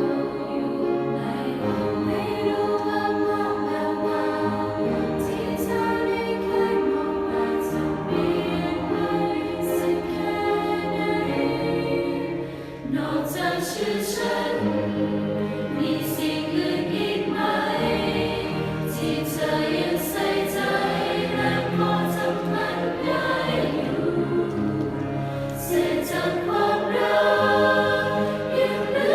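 A choir singing a song in several voice parts.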